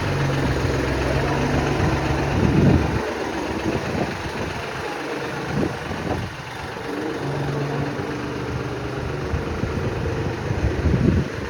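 Tractor engine running with a steady hum. It surges loudly about a quarter of the way in, runs lower and rougher for a few seconds, then steadies again and swells once more near the end.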